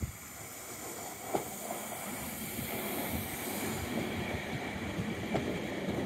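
Electric multiple-unit passenger train rolling past at speed: a steady rush of wheels on rail that slowly grows louder as it nears, with two sharp clacks as the wheels cross rail joints.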